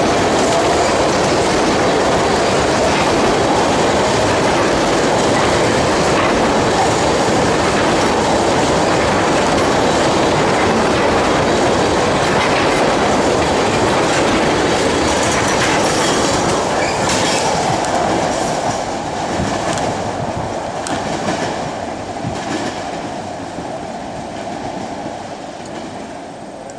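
Freight train of empty tank cars rolling past close by: a steady rumble with the clickety-clack of wheels over rail joints. From about 18 s in it fades away as the last car passes and moves off.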